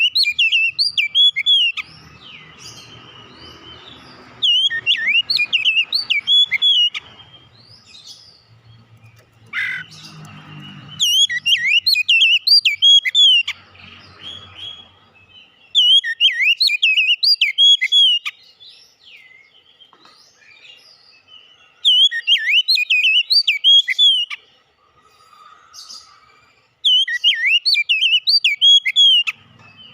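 Oriental magpie-robin (kacer) singing: six loud phrases of sweeping whistled notes, each two to three seconds long, repeated with short pauses between.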